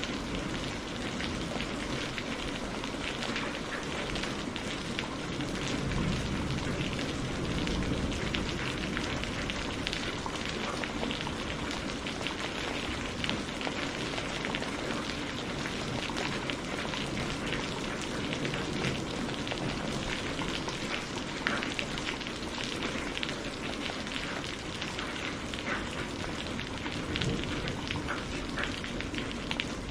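Steady heavy rain falling and pattering on surfaces, with many fine drop ticks and a low rumble underneath.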